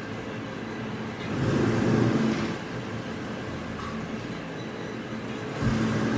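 Steady machinery hum with two louder swells, one lasting about a second starting a little over a second in and another near the end.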